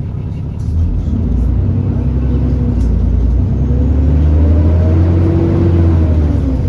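Alexander Dennis Enviro400 double-decker bus engine pulling under power, with a whine over the low engine note. The engine gets louder about a second in and rises in pitch, then eases and falls again near the end.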